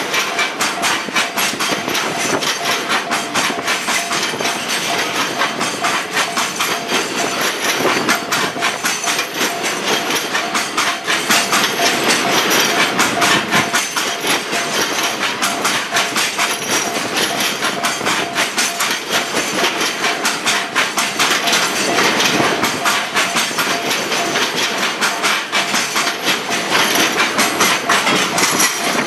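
Freight train's container wagons rolling past, their wheels clattering quickly and without a break over the rail joints, with a faint steady whine under the clatter.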